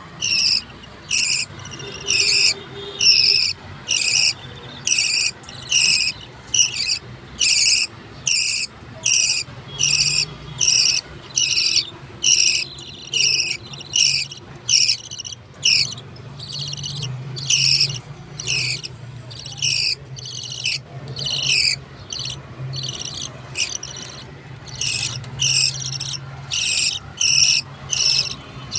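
Budgerigar chicks' begging calls as they are fed: short high-pitched chirping calls repeated about twice a second, with a few brief pauses.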